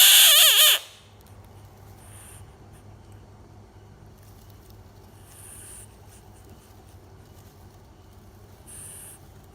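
A frog gives one loud, wavering high-pitched call, under a second long, right at the start, followed by a few faint hissy sounds about every three seconds.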